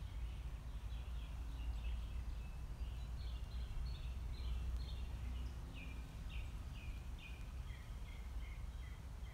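A bird calling over and over: a long series of short, high chirps, about two or three a second, over a low, steady outdoor rumble.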